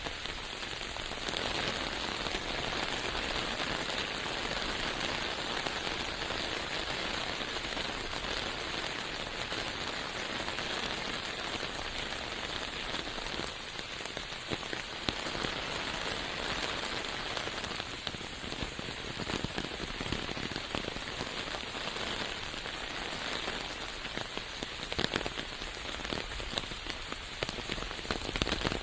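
Steady rain falling in a forest: a constant hiss made of many small drop hits, holding an even level throughout.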